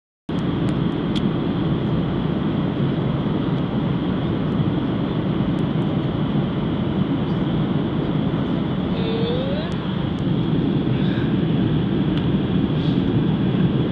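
Steady rushing cabin noise of an airliner on its landing approach, the engines and airflow heard from inside the passenger cabin. It cuts in abruptly just after the start and holds level.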